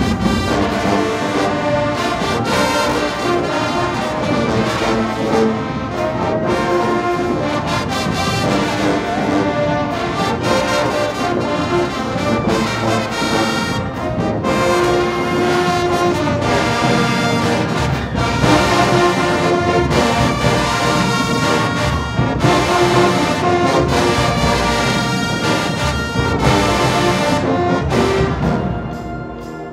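High school marching band playing, with brass (trombones and trumpets) and drums, loud and continuous. It fades near the end.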